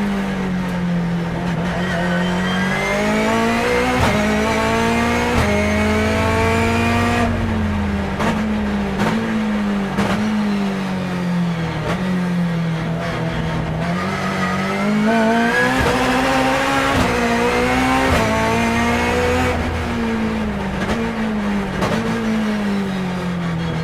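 Turbocharged BMW S14B20 four-cylinder in a BMW E36 time attack car, heard from on board while lapping a track. Its pitch climbs under acceleration twice and drops back each time the driver lifts off.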